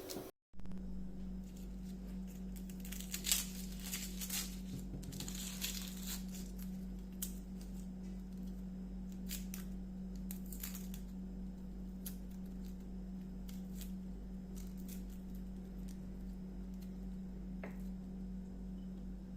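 Food-preparation handling noises: rustling and scattered light clicks and taps, busiest in the first half, over a steady low hum.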